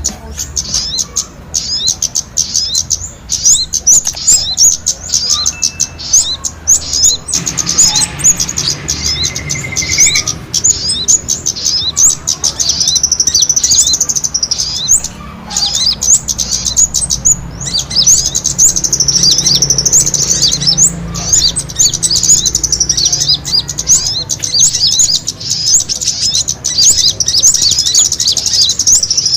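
Many small birds chirping rapidly and densely in a high-pitched, agitated chatter, a recording of small birds squabbling and fighting of the kind played as a bird-trapping lure.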